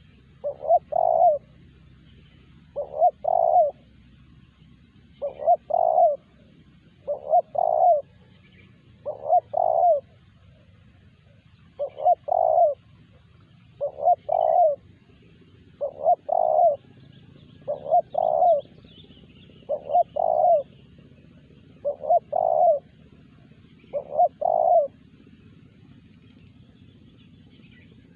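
Spotted dove cooing: a short, doubled coo phrase repeated about every two seconds, a dozen times, falling silent a few seconds before the end.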